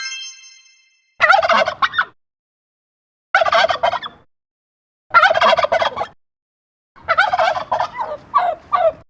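A turkey gobbling four times, about two seconds apart; the last gobble is longer and breaks into several pulses. A short chime rings and fades in the first second.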